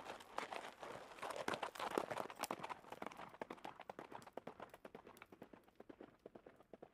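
Horse hooves clip-clopping: a quick, irregular clatter of hoof strikes, loudest in the first three seconds and fading after.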